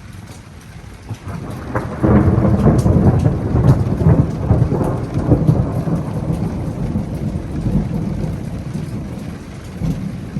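A long roll of thunder that swells about a second in, breaks loud about two seconds in and rumbles away over several seconds, with steady rain falling throughout.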